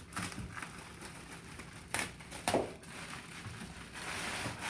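Packaging rustling and crinkling while items are handled out of a box, with two short knocks about two seconds in and a longer rustle near the end.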